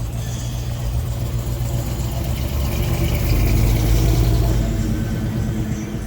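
A car engine running low and steady as the car drives past, growing louder to a peak about four seconds in, then easing off.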